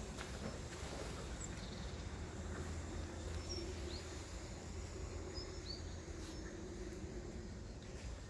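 Outdoor ambience: a steady low rumble with a few short, high bird chirps scattered through it, and a couple of faint knocks.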